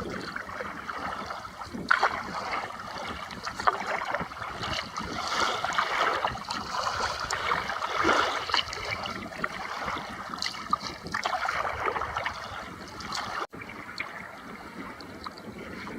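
Sea kayak under way: paddle blades dipping and splashing in the sea at irregular strokes every second or two, with water sloshing against the hull. The sound drops out for an instant about thirteen seconds in and carries on more quietly.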